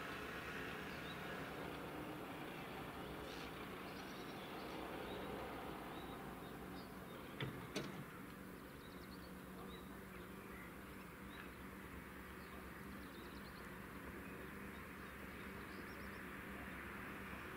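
Quiet outdoor background with small birds chirping now and then over a faint steady hum. Two short knocks come in quick succession about halfway through.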